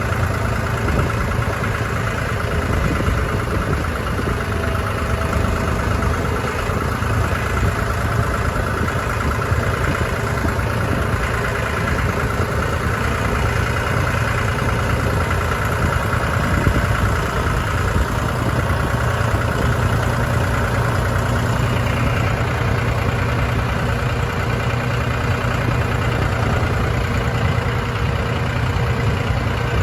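John Deere 5045E tractor's diesel engine running steadily, a continuous deep rumble with no change in speed.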